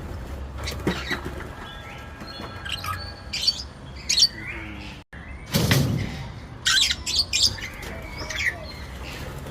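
Parrot-like birds giving short, shrill squawks and chirps, several scattered calls over a steady low background.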